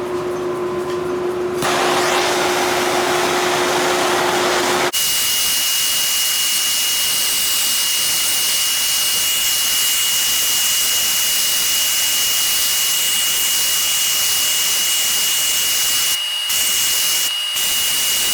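Gas torch hissing steadily as it heats a hardened knife blade to temper it. About five seconds in the sound changes abruptly to a brighter hiss with a thin, steady high whistle, broken twice briefly near the end.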